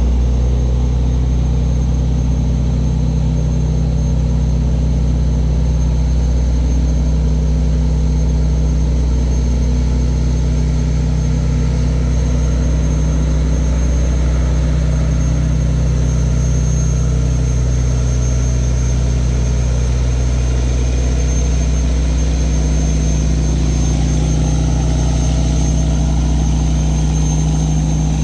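Tugboat diesel engine running steadily at an even speed, a continuous low hum with a faint steady high whine above it.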